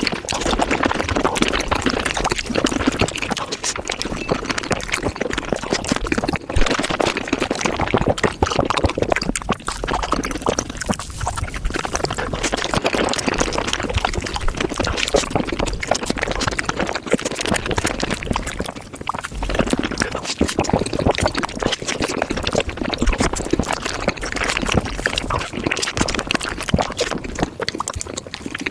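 Close-miked eating of strawberries, sped up about five times: a dense, unbroken stream of wet, juicy chewing and biting clicks.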